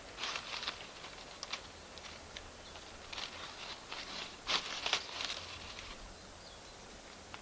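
Campfire of Iwate cut charcoal and firewood crackling, with irregular sharp pops from the burning charcoal; the loudest cluster of pops comes a little past the middle.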